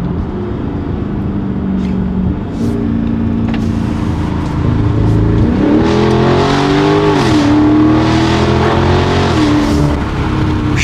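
Muffler-deleted 2023 Chrysler 300C's 6.4-litre HEMI V8 exhaust heard from inside the cabin while driving. It holds a steady drone, then about halfway through it rises in pitch as the car accelerates, is loudest there, and settles back down near the end.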